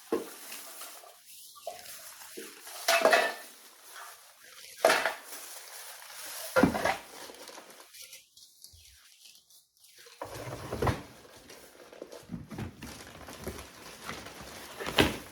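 Hard objects clinking and knocking as things are handled and set down, with four sharper knocks and, in the second half, a stretch of small clatters and rummaging.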